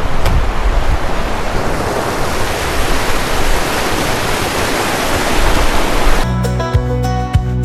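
Fast-flowing mountain river rushing, a steady wash of water noise. About six seconds in it cuts off suddenly and gentle acoustic guitar music begins.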